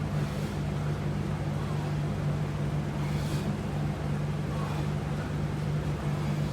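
A steady low hum of fixed tones, even in level throughout, with a faint brief swish about three seconds in.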